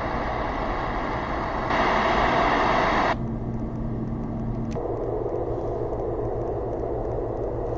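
A SERENLUX white noise machine's speaker plays a steady hiss of noise while being switched from mode to mode. The sound changes abruptly three times, and one stretch near the start is brighter and louder than the rest.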